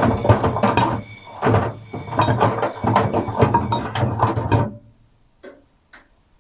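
Atlant 50U101 washing machine running its wash, with the drum tumbling a load of paint rollers and brushes in water: irregular knocking and sloshing. About three-quarters of the way in the drum stops, and two short clicks follow.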